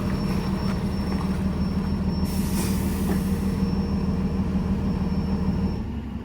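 Heavy diesel vehicle running close by with a steady low rumble and a faint high whine, fading away near the end.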